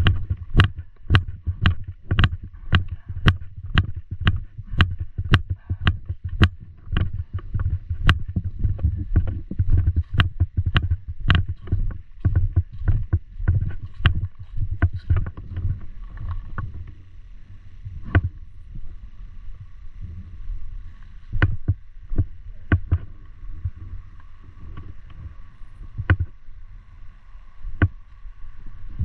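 Paintball markers firing: sharp pops come in quick succession, about two a second, for the first dozen seconds, then thin out to scattered shots. Underneath is a steady low rumble.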